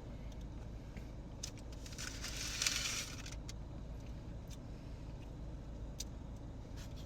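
Steady low rumble inside a car, with a few faint clicks and a brief hissing noise about two seconds in that lasts about a second.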